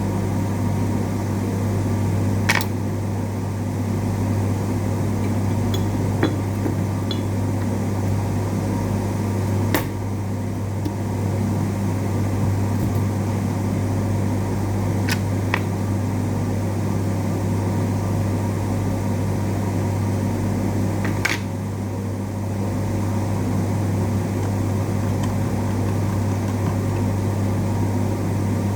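Steady low electrical hum with a fan-like hiss, broken by about half a dozen short sharp clicks scattered through it.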